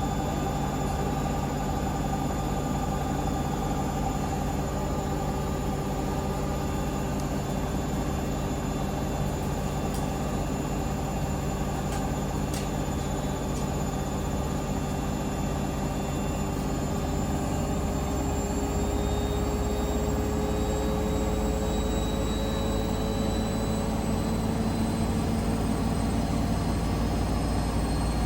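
Hoover Link washing machine on a 1400 rpm spin, running at speed with a steady motor whine and drum rumble; the whine creeps slightly higher and louder in the second half.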